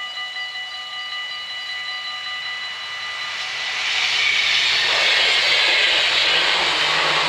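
Dutch automatic level-crossing bells ringing with a rapid pulse, giving way about three to four seconds in to the rising rush of an NS ICMm electric intercity train passing over the crossing, which grows loud and stays loud.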